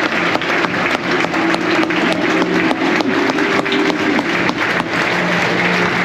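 Football crowd in a stadium singing a chant together, with clapping running through it.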